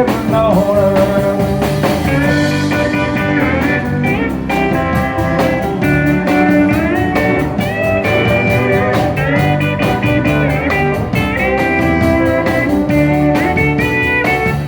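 Live country band playing an instrumental break: lead electric guitar bending notes over bass and a steady drum beat.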